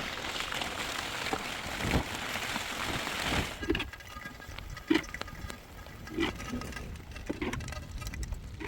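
Heavy rain hissing steadily, cutting off suddenly about three and a half seconds in. After that comes a quieter wet patter with soft thumps about a second apart.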